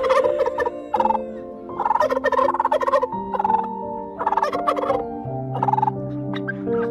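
A run of short, pulsed animal calls, about one a second, over held notes of soft background music.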